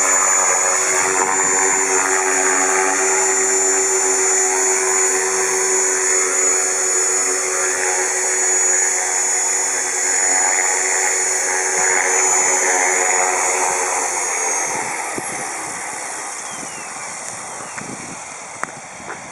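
Align T-Rex 450 Pro DFC electric RC helicopter running: a steady high motor whine over the drone of the spinning rotor blades. About three-quarters through, the whine stops and the rotor sound dies away as the helicopter spools down.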